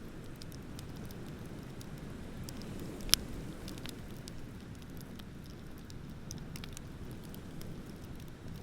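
Wood bonfire crackling with scattered small pops and one sharp, loud pop about three seconds in, over a steady low rumble of ocean waves.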